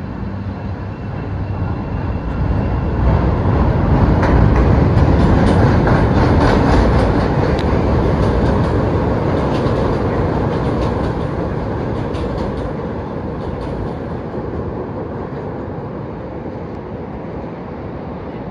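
Chicago CTA 'L' train running along the elevated station platform, its wheels clacking on the rails. It builds to a loud rumble a few seconds in, then slowly fades as it moves away.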